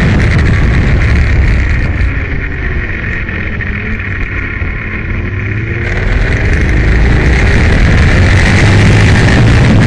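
Aprilia Tuono motorcycle engine running hard with heavy wind rush. About two seconds in the engine eases off for a few seconds, then the revs climb and it is back on full power.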